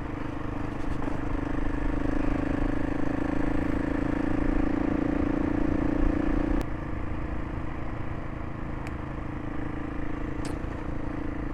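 Gas Gas ES 700 single-cylinder motorcycle engine running under steady throttle on a bumpy dirt road, its note building for a few seconds and then dropping suddenly about two-thirds of the way through as the throttle eases. Low rumbling noise runs beneath, with a few sharp ticks near the end.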